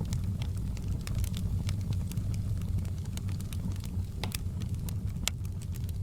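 Wood fire crackling in a fireplace: irregular sharp pops and snaps of burning wood over a steady low rumble of the flames, with two louder pops about four and five seconds in.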